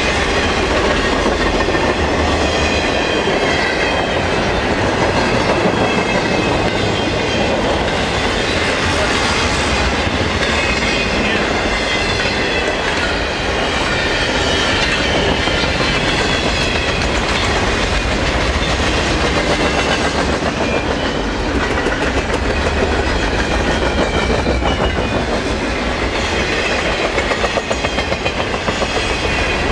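Double-stack intermodal freight train cars rolling past close by: a steady rumble and clatter of steel wheels on the rails.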